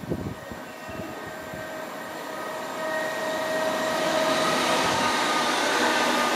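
A train approaching: a rumble carrying several steady whining tones that grow steadily louder from about three seconds in.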